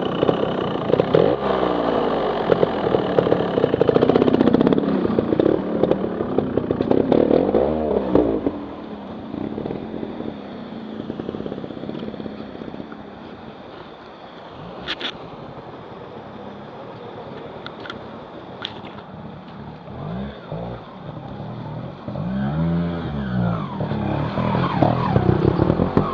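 Trial motorcycle engine revving in bursts, loud through the first several seconds, then dropping back to a low run before revving up again near the end. A few sharp clicks come midway.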